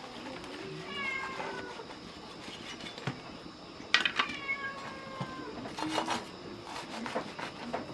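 An animal calling twice, once about a second in and again about four seconds in; each cry is drawn out and falls slightly in pitch. A sharp clatter of clicks comes just before the second call.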